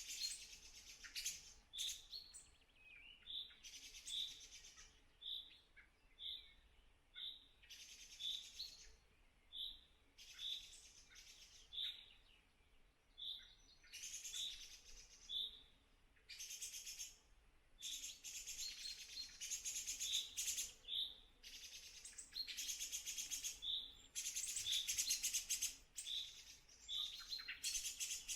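Birds calling in the open, with a short clear note repeated about once a second and bursts of high chirring, each about a second long, that come more often in the second half.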